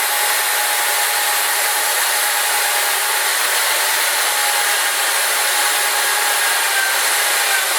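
Electric drill running steadily under load, boring a bolt hole through a skid plate, with a constant motor whine.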